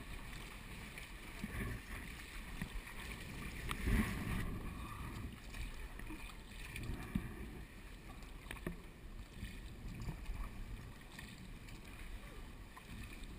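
Kayak paddling: water swishing and lapping around the paddle and hull, with small knocks and splashes and a louder splash about four seconds in.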